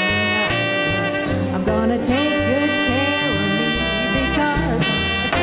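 Small-group swing band playing an instrumental chorus: a horn line over a walking string bass at about two notes a second.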